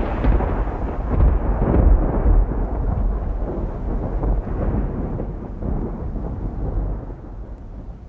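Low, rumbling wind noise on the microphone aboard a boat, a dense rush with no distinct events, fading down gradually toward the end.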